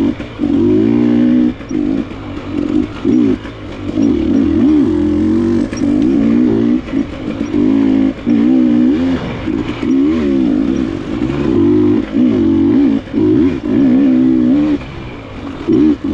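Enduro dirt bike engine, a KTM, revving up and down as the throttle is worked on and off. Its pitch rises and falls every second or so, with brief dips where the throttle closes.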